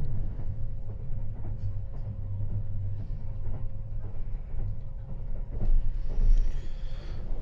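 Electric train running, a steady low rumble with a constant hum and scattered faint rail clicks, swelling a little louder near the end.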